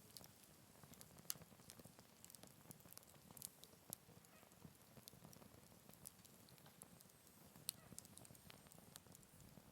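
Faint wood fire crackling in a Picogrill 398 fire stand: a soft low rumble with scattered sharp pops and snaps at irregular moments.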